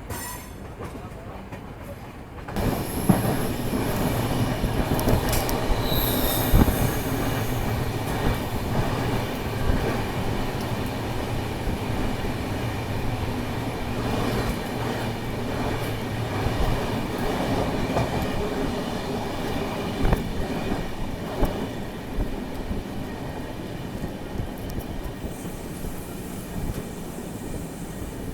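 Passenger express train running on the rails: a steady rumble of wheels and coaches with scattered knocks and brief high wheel squeals a few seconds in. The noise grows suddenly louder about two and a half seconds in.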